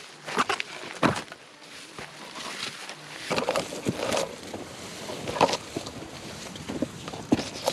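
Irregular footsteps and scuffs of hikers on a steep dirt trail, with backpack gear rustling.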